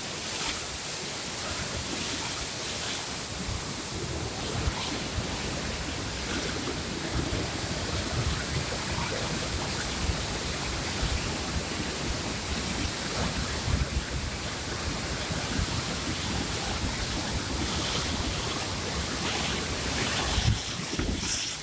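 Steady rush of water pouring out through a dam.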